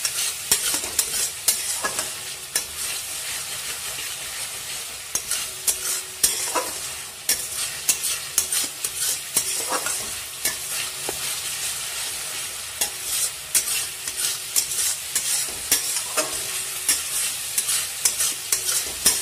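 Thick masala paste sizzling in oil in a steel pan while a metal spatula stirs and scrapes it, with frequent sharp clicks of the spatula against the pan over a steady sizzle. This is the masala being fried down (koshano) until well cooked.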